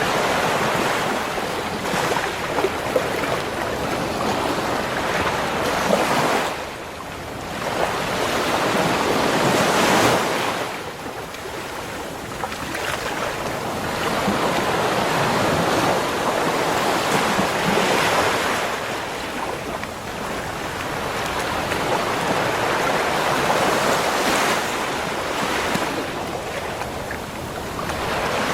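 Ocean waves breaking and washing up a beach, in a steady surf that swells and ebbs every few seconds. Wind buffets the microphone at times.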